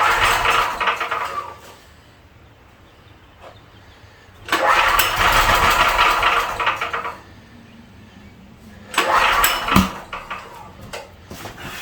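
A 13-horsepower All-Power 6,000-watt generator engine, fed starting fluid, fires and runs for a second or two, dies, and does this three times, with a sharp pop near the end of the third run. It runs only on the ether because no fuel is reaching the carburetor, running lean; the owner suspects a stuck needle seat.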